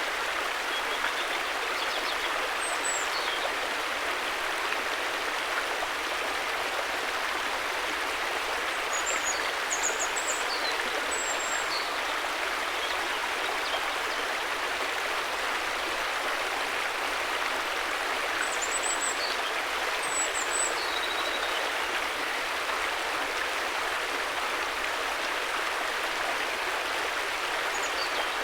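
River water flowing in a steady, even rush. Faint high chirps, most likely small birds, come in brief clusters several times over it.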